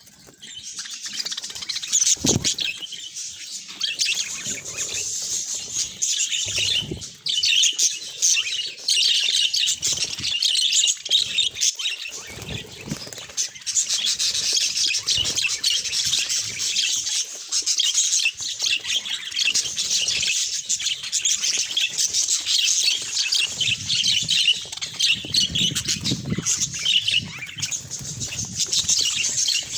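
Budgerigars chattering and chirping continuously, a dense high twittering with a few brief low thuds.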